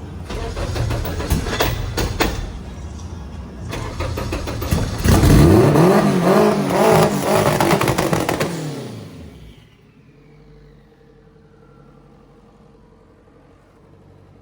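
Tuned car engine running loudly with a few sharp cracks early on, then revved up and back down between about five and nine seconds in, and shut off.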